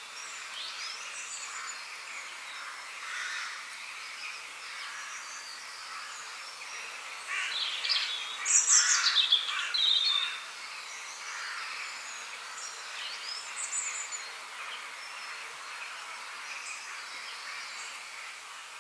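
Several birds chirping and singing over a steady background hiss. One louder, nearer bird sings a run of rapid chirps and falling notes for about three seconds in the middle.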